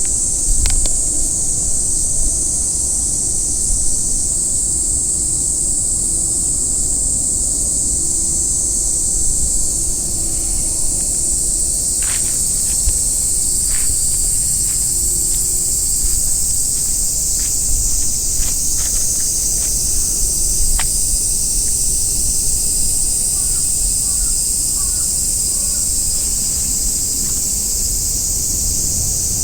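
Wind buffeting the microphone in a steady low rumble, over a constant high-pitched drone. Scattered light clicks come in the middle, and a few faint chirps near the end.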